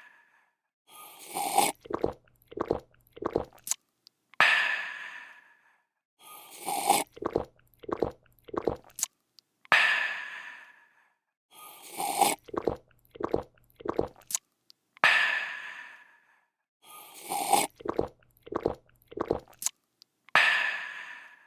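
A person drinking in a repeating loop: a slurp, a quick run of four or five gulps, then a breathy refreshed "aah". The cycle comes round about every five seconds.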